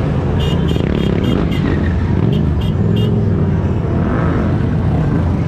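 Several motorcycle engines running together. A run of short, high beeps sounds over the engines, about three a second, in the first three seconds.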